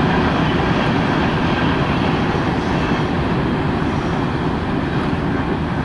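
CSX freight train rolling past, a steady rumble of wheels on rail that eases slightly near the end.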